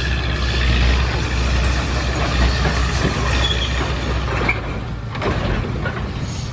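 Heavy diesel machinery running, with a steady low engine drone and a few short high squeaks. The drone drops off about four and a half seconds in.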